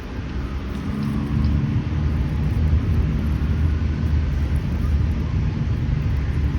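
Low, steady engine rumble of passing motor traffic, building about a second in and then holding.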